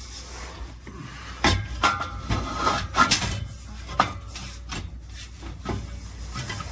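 A stainless steel exhaust pipe section being worked into place: irregular sharp clanks and knocks with scraping and rubbing between them, and a short metallic ring a couple of seconds in.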